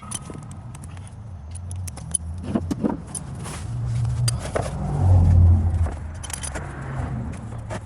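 Car keys jangling amid clicks and knocks of someone handling the car, with a steady low hum underneath and a heavier low thump about five seconds in.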